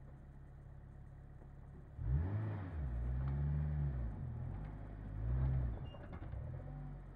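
Daihatsu Feroza 4x4's engine idling low, then about two seconds in revving up and easing off in three rising-and-falling swells as the vehicle pulls away over a rough dirt track. It drops back to a low run near the end.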